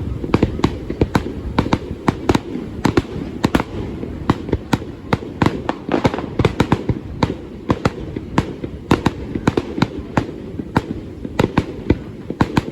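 Fireworks going off in quick, uneven succession: sharp bangs several a second, over a steady low rumble.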